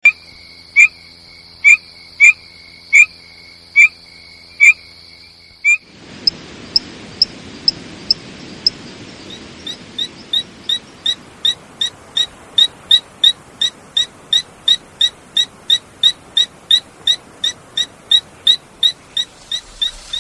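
Frogs and toads calling: first a short call repeated about once a second over a steady high-pitched drone, then, after an abrupt change, a faster run of short, high, clicking peeps at about two to three a second.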